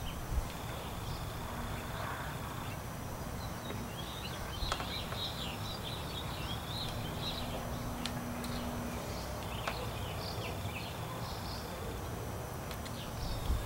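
Outdoor ambience: birds chirping in short bursts over a steady low background rumble, with a few faint sharp clicks.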